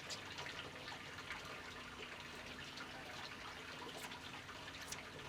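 Faint, steady trickling and sloshing of water, with a couple of small clicks near the end.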